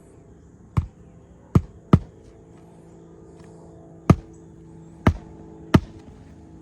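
Six sharp hammer blows on the shingle roof at uneven spacing: three in the first two seconds, then three more from about four seconds in.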